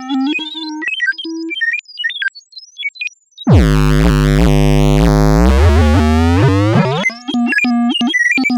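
Synthesized robot beeps and chirps in the manner of R2-D2, in quick strings of short notes that jump up and down in pitch. About halfway through, a loud low electronic buzz cuts in for about three seconds, then the quick chirping beeps resume.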